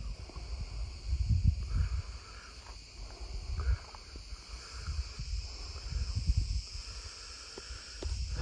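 Steady high-pitched insect chirring in the background, with irregular low rumbles on the microphone every second or so.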